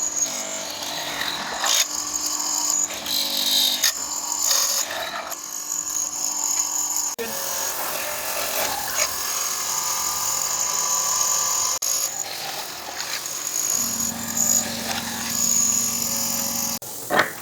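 Handheld power tool running on wood in a series of short clips, its sound changing abruptly at each cut.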